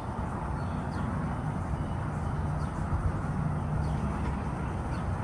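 Steady low outdoor background rumble with a faint hum, and a few faint short high chirps.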